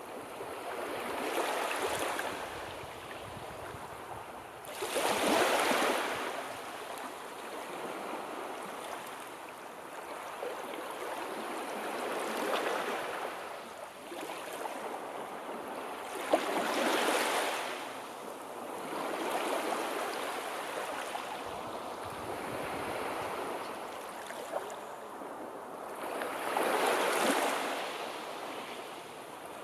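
Sea waves washing in and breaking, the surf noise swelling and fading about every four to six seconds over a steady wash of water.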